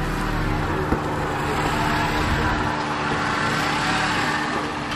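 Honda City car engine running under throttle as a learner driver presses the accelerator and lets out the clutch: a steady hum with a rush of noise that swells in the middle. A light click sounds at the start and another about a second in.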